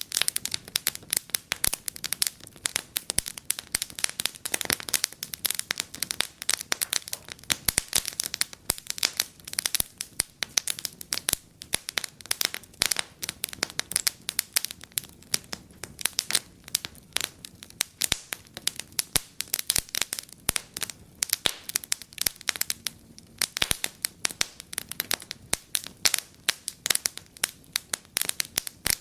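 Wood fire in a fireplace crackling, with many irregular sharp pops and snaps over a soft hiss.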